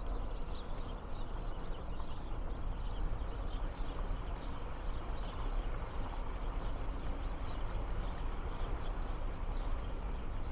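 Many small birds chirping, short calls scattered throughout, over a steady low rumble of strong wind on the microphone.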